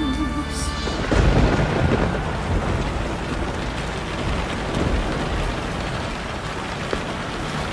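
Heavy rain falling steadily, with a low roll of thunder about a second in.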